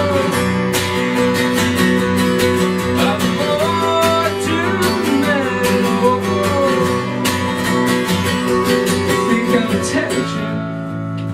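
Instrumental passage from a drumless acoustic band: strummed acoustic guitar over sustained bass notes, with a melody line sliding up and down above it. The strumming thins out near the end.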